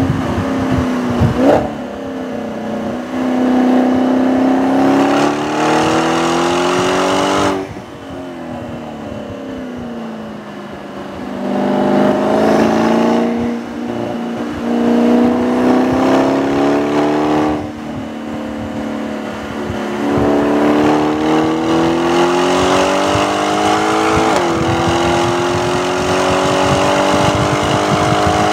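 2017 Audi S6's twin-turbo 4.0 V8 engine accelerating hard on track. Its pitch climbs and snaps back down at each upshift. Twice, about 8 and 18 seconds in, it falls away sharply as the throttle is lifted, then climbs again.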